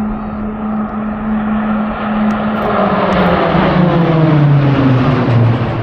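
Fixed-wing aircraft passing close by: a steady engine tone that starts to drop in pitch about two seconds in as it goes past, growing loudest just before the end.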